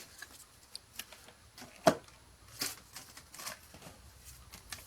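Pokémon trading cards being handled and flipped through: a few soft swishes of card sliding on card and light taps, the sharpest about two seconds in.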